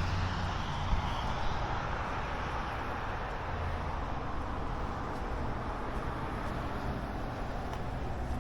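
Steady hum of distant road traffic, with a low rumble beneath it.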